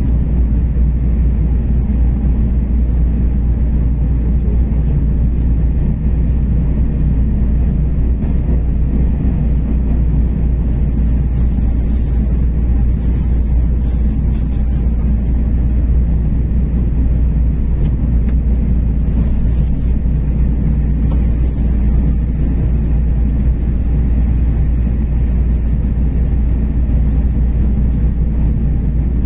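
Steady low rumble of a Tze-Chiang Limited Express train running along the line, heard from on board.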